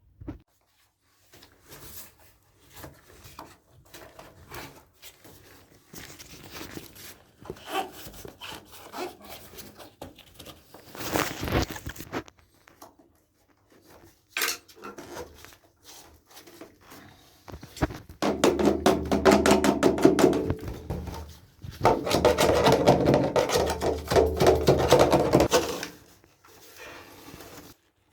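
PVC drain pipe and fittings being handled and worked: scattered knocks and clicks, then two longer stretches of fast scraping or rubbing near the end.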